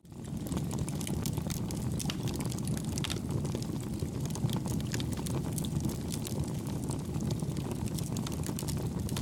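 Campfire burning: a steady low rumble of flames with frequent small crackles and pops. The level drops away for a moment at the very start and comes straight back.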